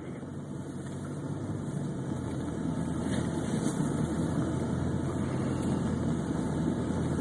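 Car engine running with road noise, heard from inside the cabin while driving through deep snow, growing steadily louder.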